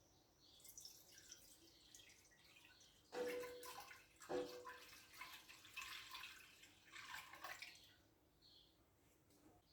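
Faint splashing water, coming and going in uneven spurts for several seconds.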